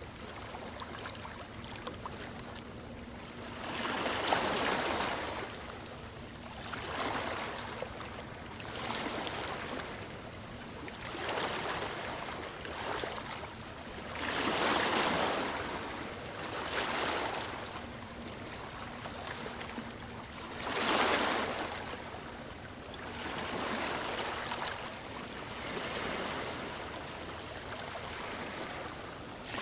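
Small waves washing in and drawing back, one surge of surf every two to three seconds, the strongest about four, fifteen and twenty-one seconds in.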